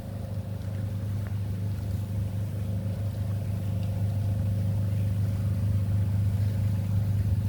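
A motor engine running with a steady low hum, slowly getting louder as it draws nearer.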